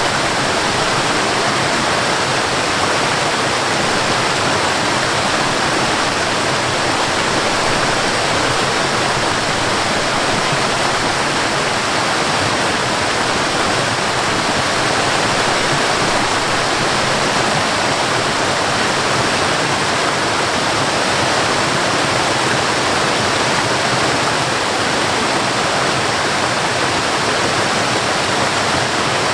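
Waterfall: a steady, unbroken rush of falling water, with no separate splashes or changes.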